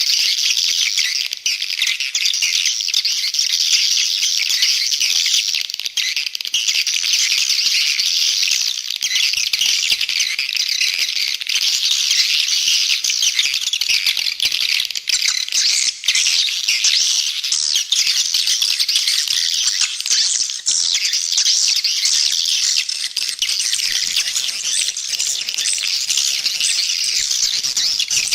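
Dense, continuous twittering of many edible-nest swiftlets, a high chirring chatter with no pauses. It is a swiftlet lure-call recording of the kind played to draw the birds to a nesting house.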